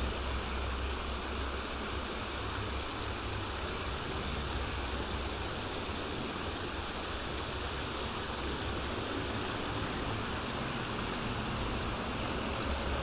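Creek water rushing steadily over rocks, with a low rumble in the first few seconds.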